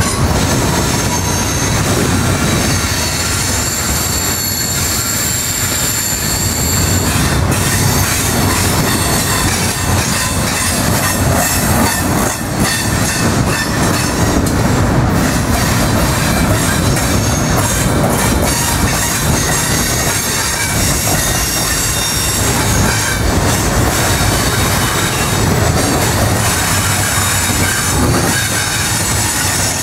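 Double-stack intermodal container train rolling past close by: the steady rumble of its well cars' steel wheels on the rails. Thin high wheel squeal rides on top, strongest a few seconds in.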